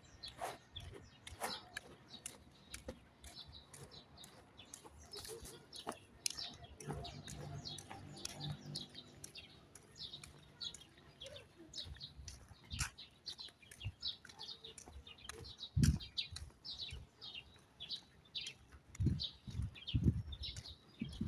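Small birds chirping in a dawn chorus: many short, quick chirps, fairly faint, with a few low thumps in the second half.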